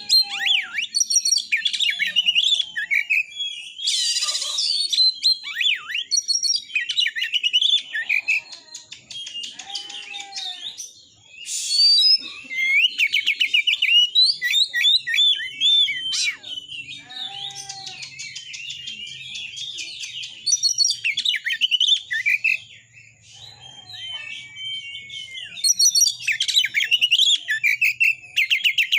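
Oriental magpie-robin singing a long, varied song of whistled phrases, rapid trills and a few harsh notes, with short pauses between bursts.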